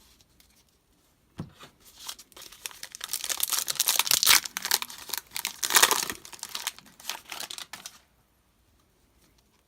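Trading-card pack wrapper being torn open and crinkled: a dense crackling that builds about two seconds in, peaks midway and stops about two seconds before the end, after a single tap.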